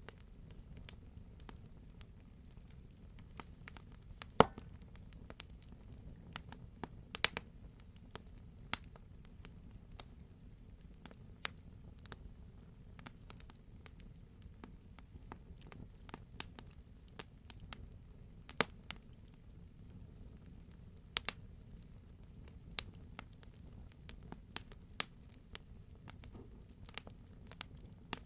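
Campfire crackling: irregular sharp pops and snaps over a low, steady rumble, with one loud pop about four seconds in.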